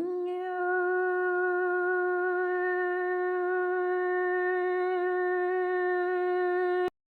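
A voice holding one long, steady vocal note, sliding up into pitch at the start, then cutting off abruptly near the end.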